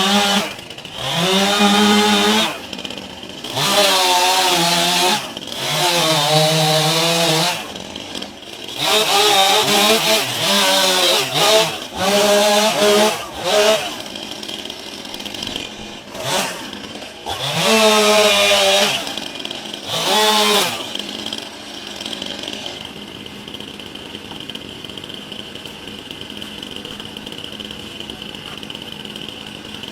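Two-stroke chainsaw revved hard in about six bursts, each one's pitch climbing and then falling away, as it is worked on the backyard trees. About two-thirds of the way through it drops back to a steady idle.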